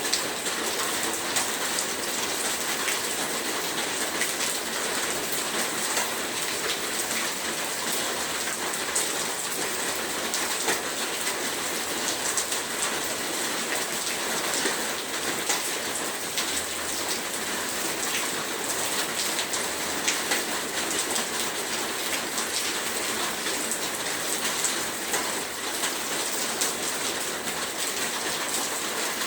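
Heavy rain falling steadily: a dense, even hiss with many sharp drop hits throughout.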